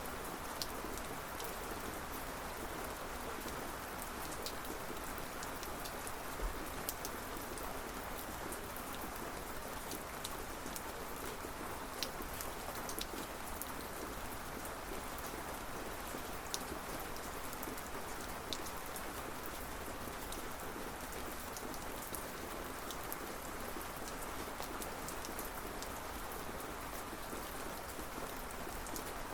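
Steady rain falling: an even hiss with scattered sharper drop ticks, and no thunder.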